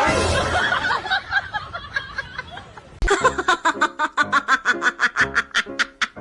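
Laughter in quick, repeated bursts.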